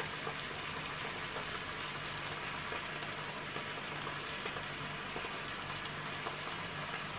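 Boneless chicken pieces frying in butter in a pan, a steady sizzle.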